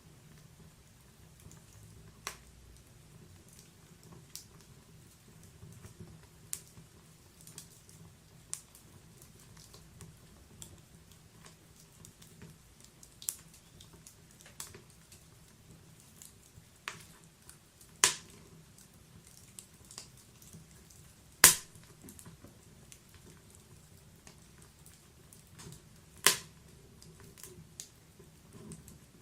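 Wood fire burning in a log fireplace, crackling with scattered sharp pops, the three loudest about 18, 21 and 26 seconds in.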